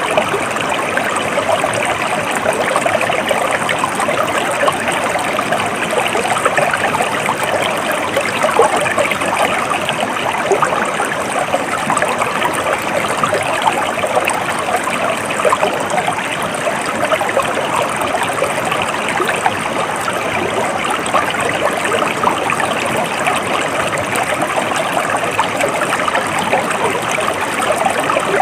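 A shallow stream flowing steadily, water trickling and burbling over stones.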